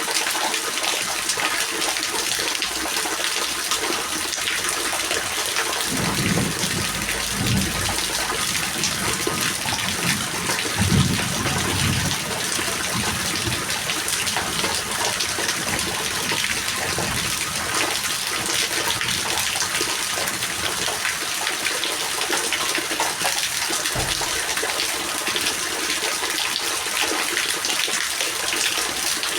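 Steady heavy rain, a dense even hiss of falling water, with low rumbles about six and eleven seconds in and a short low thump near the end.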